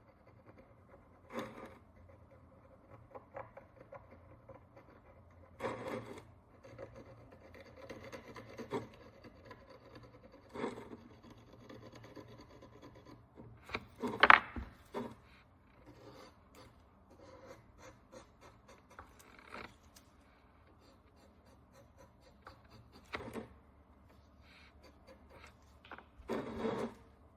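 A small hand tool scrapes and picks at the crust on a Roman bronze coin in short, irregular scrapes and ticks. The loudest scrape comes about halfway through.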